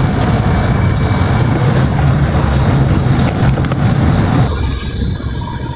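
Loud low rumble and rushing noise of strong wind on the microphone over a tugboat's engine running, the rushing dropping off sharply about four and a half seconds in and leaving the lower rumble with faint steady tones.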